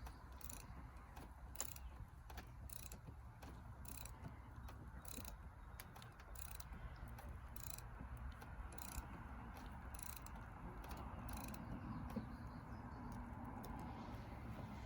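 A lifting jack being worked stroke by stroke under a building corner, with a regular sharp click about every 0.6 s. The clicking stops about 11.5 s in.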